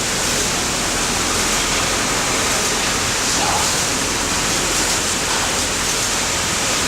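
Automatic pattern sewing machine and surrounding workshop machinery running: a loud, steady hiss with no clear stitching rhythm.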